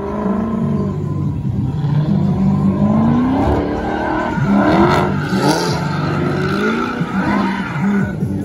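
Dodge Charger SRT's V8 revving up and down over and over as the car drifts, with tyre squeal peaking about five seconds in.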